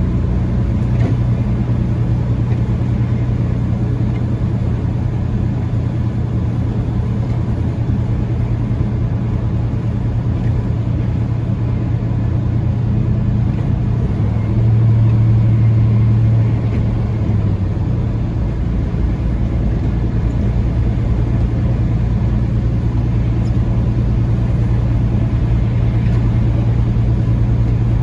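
Peterbilt 579 semi-truck driving at highway speed: a steady low engine drone over road noise, briefly louder about fifteen seconds in.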